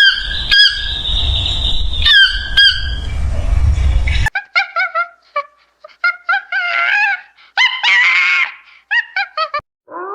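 Animal calls: a few high, drawn-out calls with wavering pitch over a low rumbling background, then, after a sudden cut about four seconds in, a quick run of short squawking and chirping calls.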